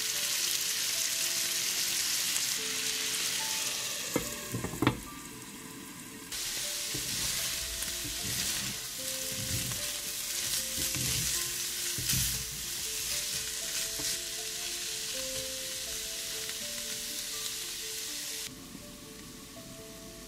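Food sizzling in olive oil in a frying pan as it is stirred, with a few sharp knocks of a utensil against the pan about four to five seconds in and again after about twelve seconds. The sizzle drops and rises in level a few times.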